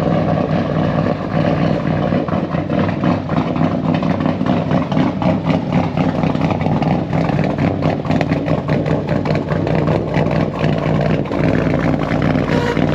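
Camaro engine with a stage 4 cam running at idle through its current exhaust, a choppy, raspy exhaust note.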